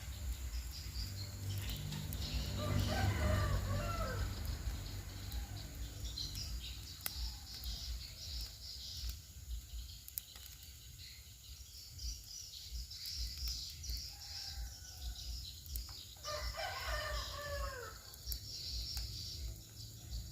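A rooster crowing twice, about two seconds in and again near the end, with smaller birds chirping faintly between the crows.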